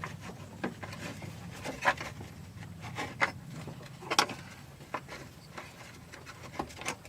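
Scattered knocks, taps and scrapes of an AC condenser fan assembly being worked into place by hand, knocking against the radiator and nearby parts, with a low steady hum underneath.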